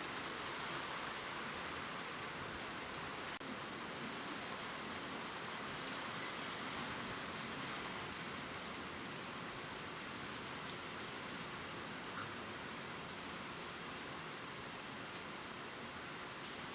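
Gentle rain falling steadily on leaves, an even dense patter and hiss, with a momentary dip about three seconds in.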